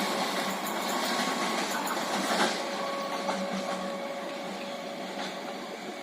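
Electric local passenger train running, a steady mechanical rumble with a faint whine and light rattling ticks, slowly fading.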